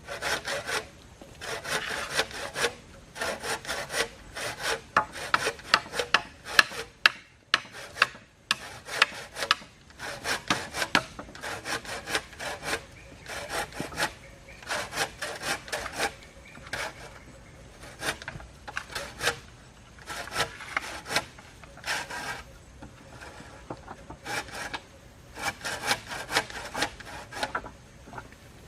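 Hand saw cutting through wood in quick back-and-forth strokes, in runs with a brief pause about a quarter of the way through.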